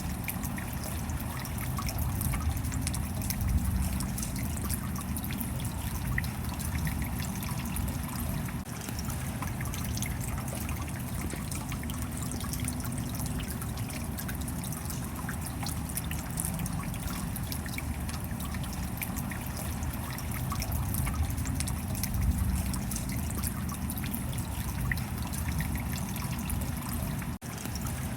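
Steady rain, with many small drops ticking and water trickling over a low rumble. A very brief dropout comes near the end.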